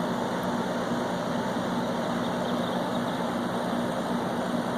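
Window air conditioner running steadily, its blower fan rushing over a low compressor hum; it is blowing cold now that its clogged coils have been cleaned.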